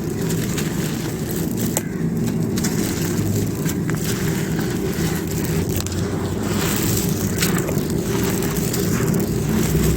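Dry fired clay pot pieces being crumbled and crushed, with a steady crunching grind full of small sharp crackles and snaps.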